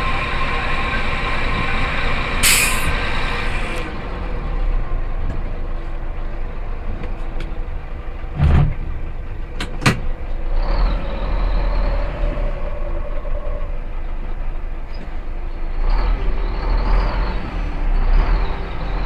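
Three-axle Scania dump truck's diesel engine running steadily, with a short burst of air hiss about two and a half seconds in and two sharp knocks a little past the middle.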